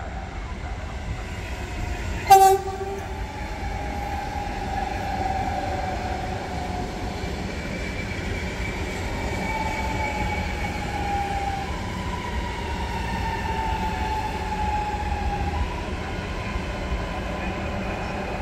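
Electric double-deck regional train running past along the platform. A short, loud horn blast comes about two seconds in, then the rumble of wheels on rail under a whine that slowly falls in pitch.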